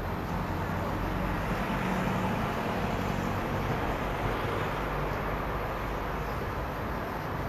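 Steady road traffic noise: a continuous rumble of passing vehicles with no distinct single event.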